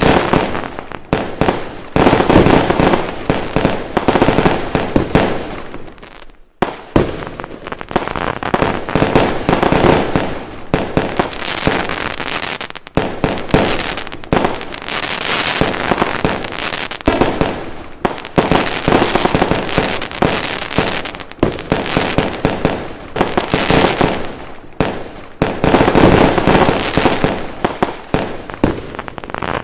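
Fireworks going off in a dense, continuous barrage of bangs and crackles, with a brief lull about six and a half seconds in.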